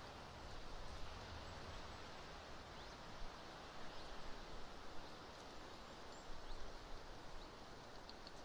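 Strong, gusty wind rushing over the nest webcam's microphone, a steady noisy rush with a low rumble that eases after the first second or so. A few faint, short, high chirps show through it.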